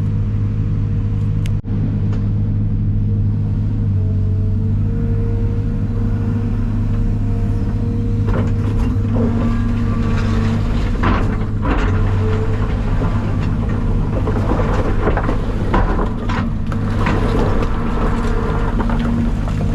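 Heavy diesel engine running steadily with a low hum, with scattered rattles and knocks in the middle of the stretch.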